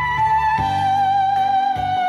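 An aerophone, a digital wind instrument, plays a slow melody of long held notes with vibrato over a backing track. The lead steps down to a lower note about half a second in.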